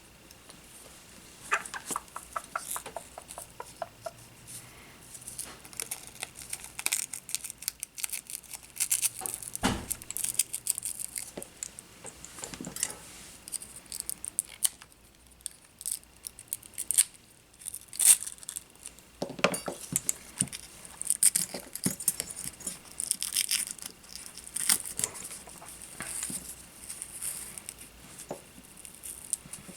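Small tools and parts being handled on a workbench during a drone frame repair: irregular clicks, taps and rustling, with a faint steady high tone underneath.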